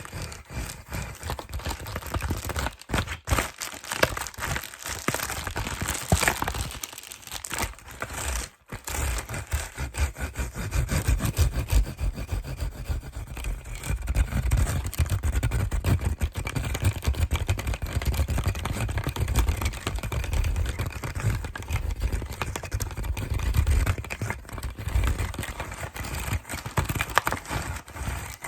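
Fast, aggressive close-microphone handling of plastic and cardboard packaging: continuous crinkling, scratching and clicking. From about nine seconds in, heavy low rubbing and thumping runs under it.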